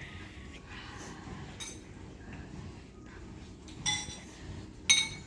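Eating utensil clinking against a bowl: a light clink about a second and a half in, then two sharper ringing clinks about a second apart near the end.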